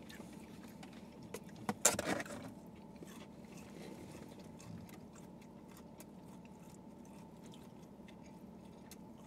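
Quiet chewing and mouth sounds of people eating fried chicken tenders, with small clicks and one short, louder noise about two seconds in, over a steady low background hum.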